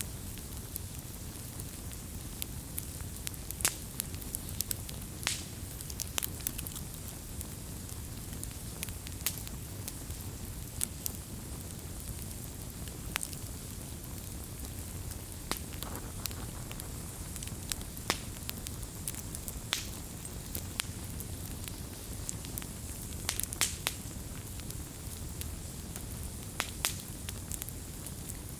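Campfire burning: a steady low rumble and hiss from the flames, broken by irregular sharp crackles and pops, a few of them louder.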